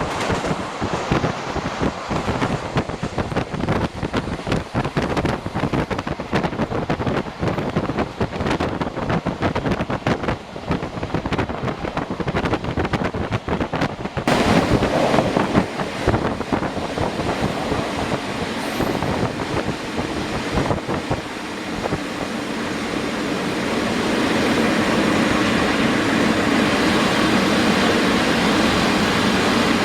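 Passenger train running along the track, heard from on board: a dense patter of clicks from the wheels and track. About halfway through the noise abruptly gets louder, and over the last few seconds it becomes a steadier, louder rumble.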